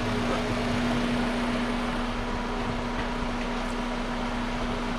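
A steady mechanical hum holding one constant tone.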